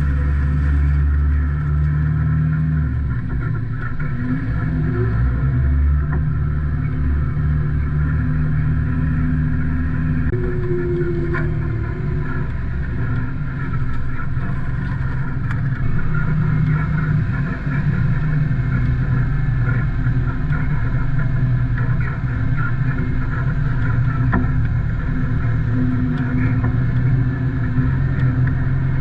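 Isuzu NPS 4x4 truck's diesel engine running steadily while driving, with the engine note shifting a couple of times.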